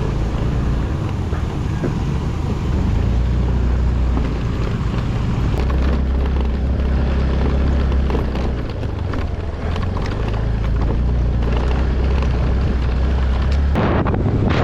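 Vehicle engine running with wind buffeting the microphone: a loud, steady low rumble. Near the end it cuts abruptly to a brighter rushing noise.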